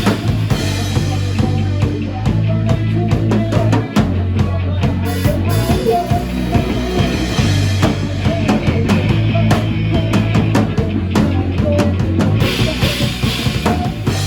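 Band music without vocals: a drum kit playing a steady beat of kick, snare and rimshot over a bass line and other held instrumental notes.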